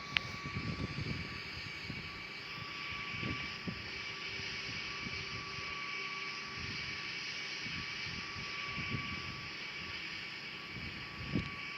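Airbus A340 jet engines running steadily with a whine at a distance, with gusts of wind buffeting the microphone and a single click just after the start.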